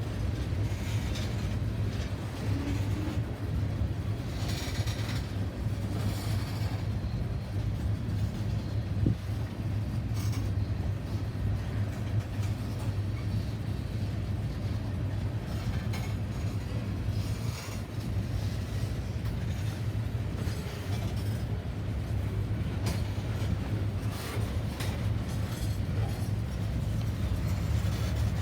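A train rolling by on the rails: a steady low drone with scattered clicks and clanks from the wheels and cars.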